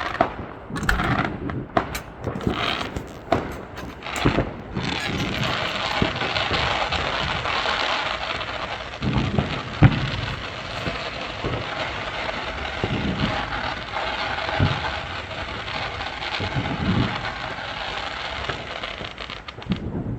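Fireworks: a string of sharp cracks and bangs, then a steady hiss from about five seconds in, broken by a few low thuds.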